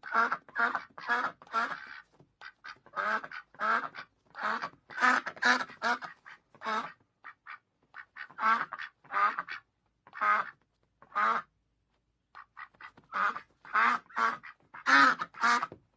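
Duck quacking: runs of short, rapid quacks broken by brief pauses.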